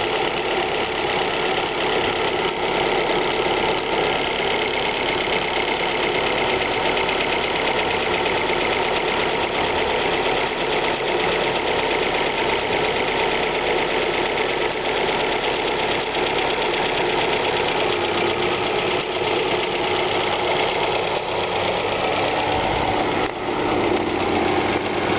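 Alfa Romeo 156 1.8 Twin Spark four-cylinder engine idling steadily after a cold start, with a fast, even ticking running through it.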